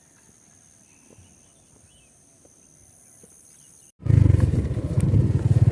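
Faint countryside sounds: a steady high-pitched insect drone and a few bird chirps. About four seconds in, a sudden cut to the loud low rumble of a motorcycle being ridden, with engine and wind noise together.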